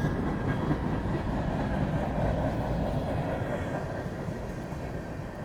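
A train rolling past on the tracks: a steady rumble of wheels on rails that slowly fades near the end.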